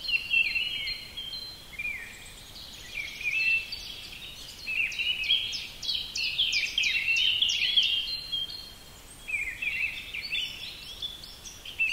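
Songbirds singing: phrases of rapid, high chirps and trills that come and go, busiest in the middle and again near the end.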